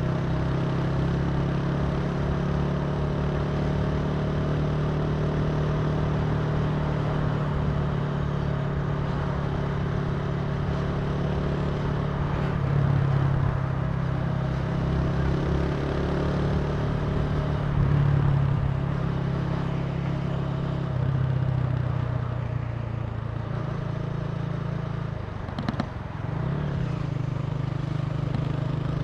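Italika TC300 motorcycle engine running steadily at cruising speed, with road and wind noise. The engine note swells a little a few times, and near the end the level dips briefly with a couple of sharp clicks.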